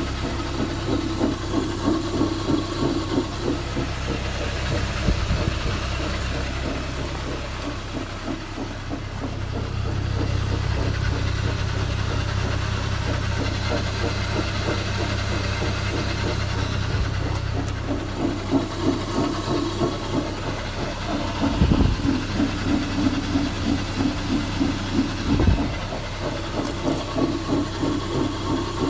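Abnormal noise from the left rear wheel of a Toyota Land Cruiser 70: a rhythmic pulsing rumble over the vehicle's steady low running hum, which the owner suspects is a failing rear hub bearing.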